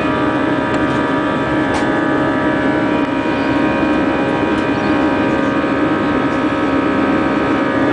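Airbus A320 jet engines at high take-off thrust heard from inside the passenger cabin: a steady loud rush of engine and airflow noise with several steady whining tones over it.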